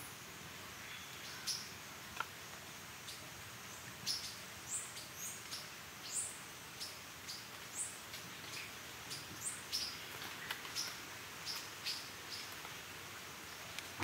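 Amazon rainforest birds giving many short, high chirps and quick upward-sweeping whistles, one every half second or so, over a steady background hiss.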